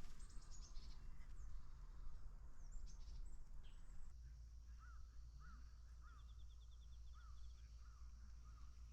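Wild birds calling: high chirps at first, then a series of short up-and-down call notes about twice a second with a quick high trill among them, over a faint steady low rumble.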